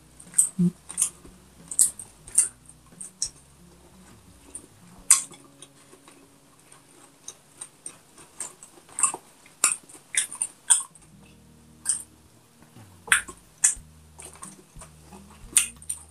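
Close-miked chewing and lip-smacking of a person eating with her mouth full: short, sharp, irregular wet smacks, sometimes several in quick succession, with a quieter stretch a few seconds in.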